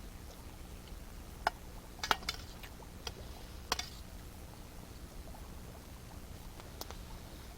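Wood campfire crackling: a handful of sharp, irregular pops over a steady low rumble.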